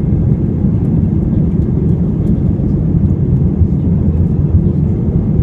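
Steady low rumble of an Airbus A320's engines and airframe, heard inside the passenger cabin.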